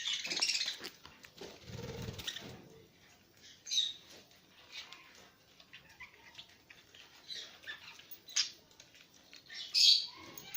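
Pet parrots giving short, high chirping calls at irregular intervals, the loudest near the end, with a brief low rumbling noise about two seconds in.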